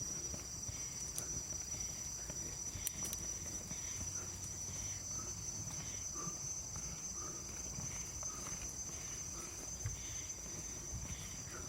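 A steady high-pitched insect drone, cicadas or crickets, runs without a break over a constant low rumble and scattered knocks from a mountain bike rolling over a rough trail.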